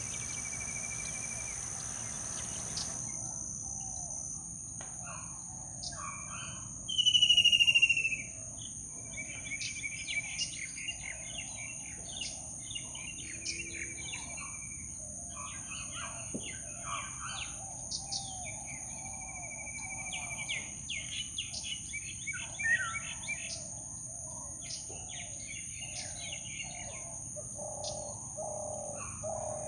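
Tropical forest ambience: many birds chirping and trilling over a steady high insect drone. One loud falling call about seven seconds in stands out above the rest.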